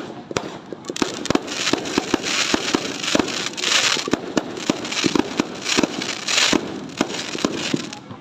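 Fireworks going off in a dense barrage: many sharp bangs in irregular succession over a crackling hiss that swells strongest in the middle.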